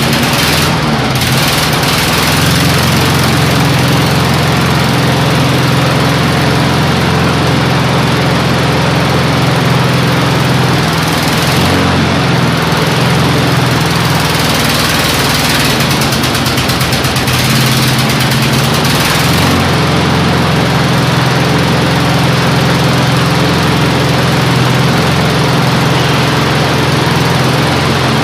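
Snapper walk-behind mower's 4–5 horsepower Tecumseh engine running steadily, its note wavering briefly a few times. It keeps running now that the main jet on its new carburetor has been backed out a turn or two; before that it would not stay running.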